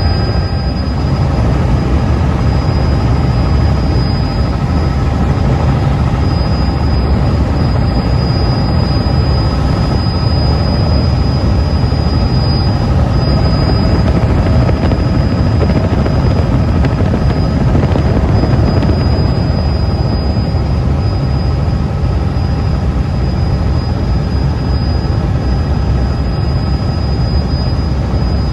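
Helicopter running steadily in flight: a loud, even drone of engine and rotor with a couple of faint steady whining tones above it.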